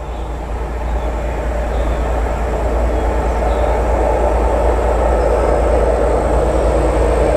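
Approaching train's rumble, growing steadily louder.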